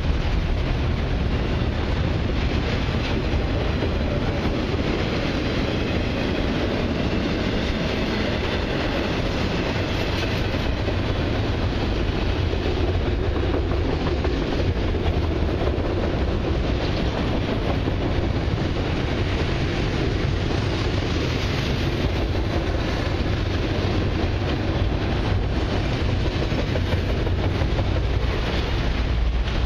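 Autorack freight cars of a long Canadian Pacific train rolling past: a steady, unbroken rumble of steel wheels on the rails that holds the same level throughout.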